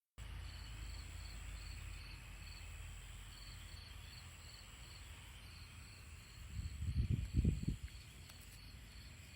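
Outdoor field ambience: a high chirp repeating about four times a second in short runs, over a faint steady high whine and a low rumble. A louder burst of low rumble comes about seven seconds in.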